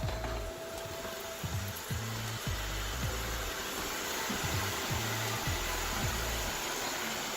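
Shark ION S87 robot vacuum running, a steady whir that grows a little louder about two seconds in, under background music with a repeating bass beat.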